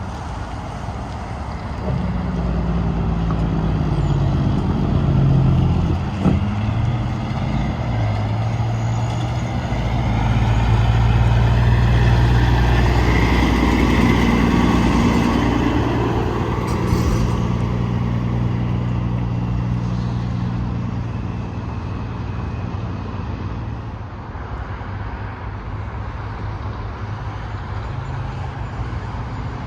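Tractor-trailer trucks passing on an interstate highway, one after another: diesel engine hum and tyre noise swelling and fading as each goes by, the loudest pass about ten to sixteen seconds in. A sharp click about six seconds in.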